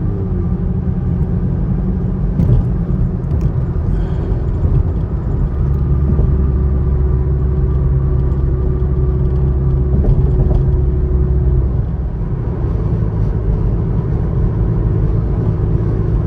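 Chevrolet Camaro driving, heard from inside the cabin: a steady low engine and road rumble that grows a little stronger for several seconds in the middle.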